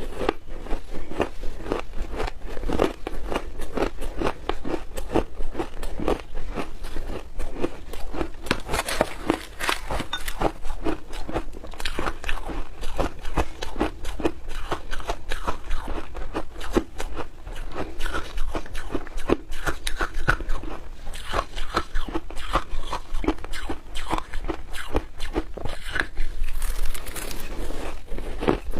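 Close-up crunching and chewing of shaved ice coated in milk powder, a dense run of crisp crackling bites without pause.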